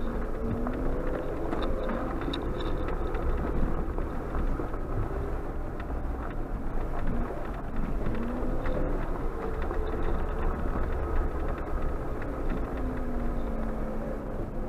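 Suzuki Jimny JB74's 1.5-litre four-cylinder engine heard from inside the cabin while driving a gravel track, its pitch rising and falling with the throttle. Underneath is a steady low rumble of tyres on gravel, with small clicks and rattles.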